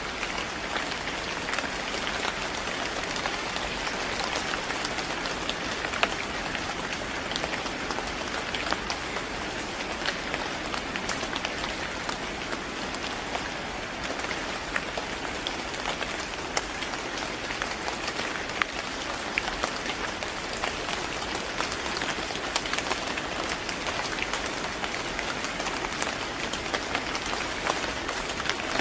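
Steady rain falling on a surface, a dense even hiss with many individual drop ticks scattered through it.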